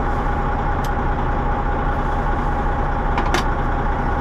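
Semi truck's diesel engine running steadily, with a steady high tone above the engine noise and a couple of short clicks, one about a second in and one past three seconds.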